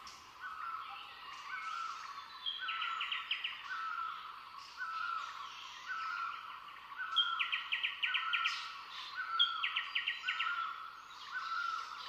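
Birds calling: a short note repeated steadily more than once a second, with three bursts of rapid, higher trills.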